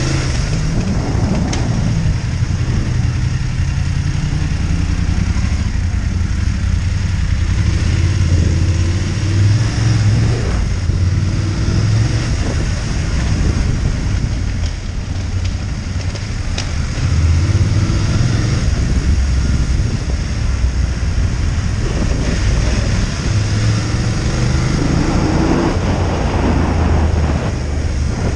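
Motorcycle engine running at low speed, its pitch rising several times as it accelerates, once near the start, again around the middle and again near the end.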